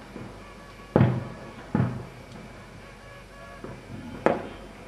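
Fireworks shells bursting: three sharp bangs, two close together about a second in and one more near the end, each trailing off in a rolling echo.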